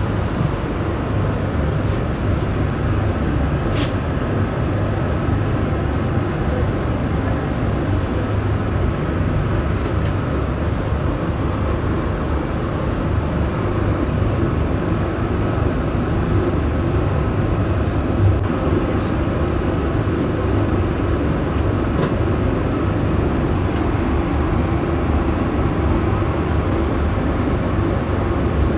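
Steady cabin noise inside a Boeing 787-8 airliner: an even, deep rumble of engines and airflow. There is a single sharp click about four seconds in.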